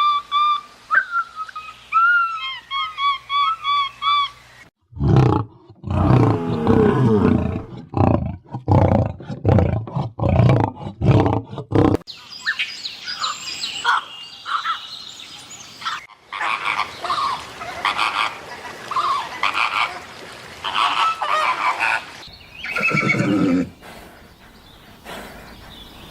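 A run of different animal calls. It opens with high, arching whines, then a loud series of deep calls in quick rhythm, then a long stretch of higher, chattering and chirping calls.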